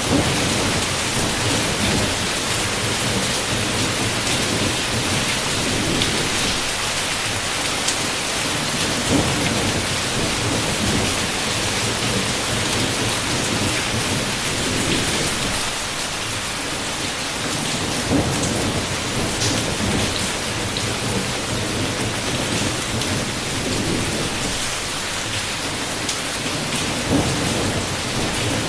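Heavy rain pouring steadily on a window, with low thunder rumbling in waves underneath.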